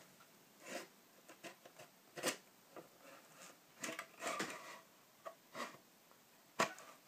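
A 3.5-inch hard drive being fitted into an external drive enclosure by hand: scattered light scrapes, rustles and clicks, with a sharper click near the end.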